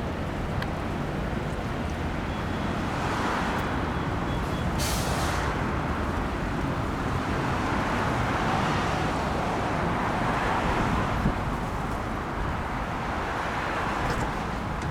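Road traffic passing steadily, with vehicles swelling up and fading every few seconds and a short sharp hiss about five seconds in.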